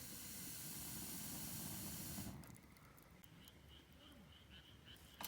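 A steady hiss that starts suddenly and cuts off after about two and a half seconds.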